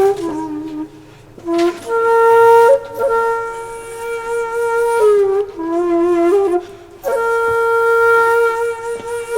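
A wind instrument playing a slow melody of long held notes, stepping and sliding between pitches, with two short pauses for breath.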